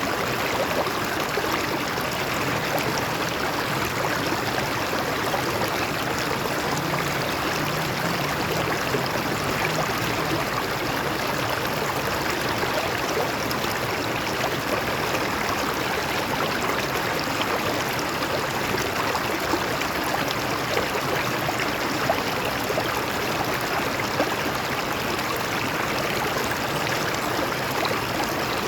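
Stream water flowing and splashing over rocks: a steady rush with fine bubbling detail.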